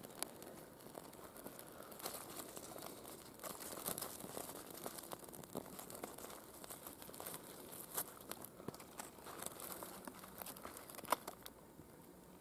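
Faint, irregular crackling and crinkling of birch-bark kindling as a small campfire catches.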